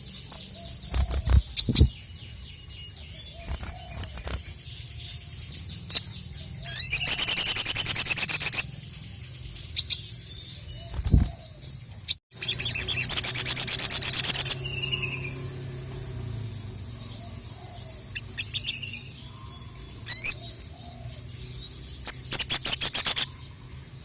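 Crimson sunbird (sogon) singing loudly: sharp high chips and short trills, with two long, fast, rattling high trills of about two seconds each, a third of the way in and just past the middle, and shorter trills near the end.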